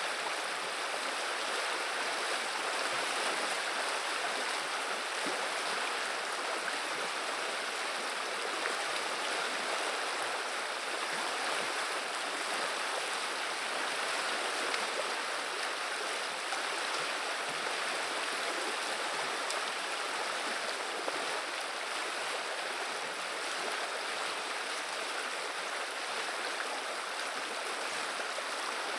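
A river running over shallows, a steady rushing and babbling of water.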